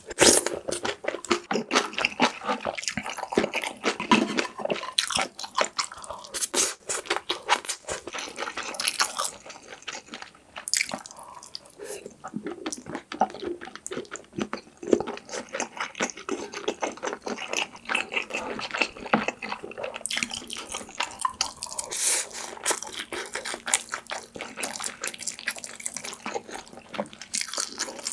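Close-miked wet chewing and lip-smacking of mouthfuls of braised kimchi stew with Spam, a dense run of quick wet clicks and smacks.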